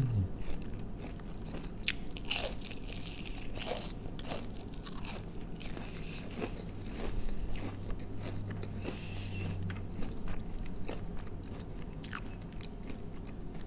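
Close-up crunching and chewing of a battered, deep-fried onion ring, with sharp crunches scattered irregularly throughout.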